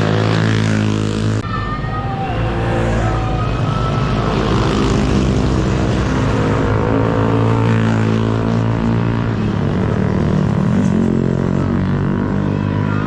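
Motorcycle engine running at a steady speed while riding, with a sudden shift in the sound about a second and a half in.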